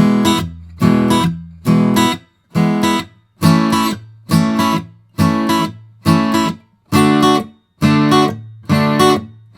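Guitar strumming a reggae rhythm: a quick downstroke followed at once by an upstroke on the chords, in short, clipped strokes at an even pace of roughly one every three-quarters of a second.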